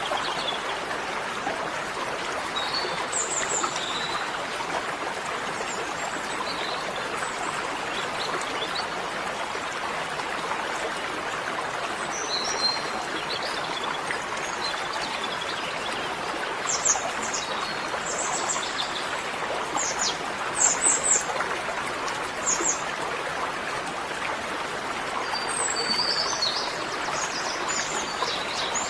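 Small birds chirping in short, high, scattered calls, in clusters in the middle and near the end, over a steady rushing background noise.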